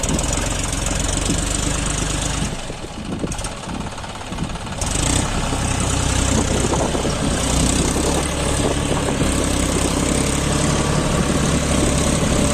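John Deere tractor's diesel engine running steadily with a deep, knocking beat. It drops back for a couple of seconds early on, then comes back louder and holds steady.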